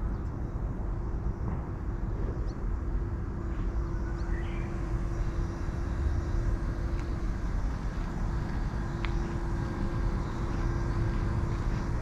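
Steady low rumble of outdoor background noise, with a faint steady hum held through most of it and a few faint ticks.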